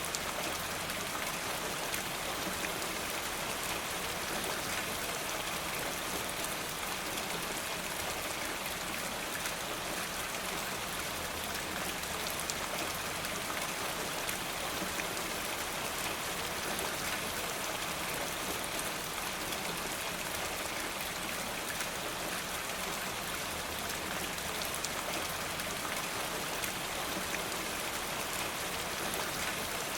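Steady rain falling, an even dense hiss sprinkled with many small drop ticks.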